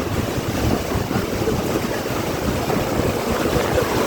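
Heavy wind blowing and buffeting the microphone in uneven gusts, a steady rushing noise heaviest in the low end.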